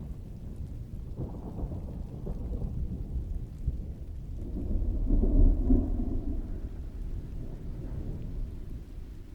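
Rolling thunder rumbling low under steady rain, with a smaller swell about a second in and a louder roll peaking about midway before it fades back.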